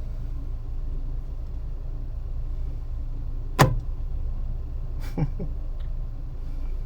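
Steady low hum of a car's idling engine heard inside the cabin, with one sharp knock about three and a half seconds in and a weaker double knock about five seconds in.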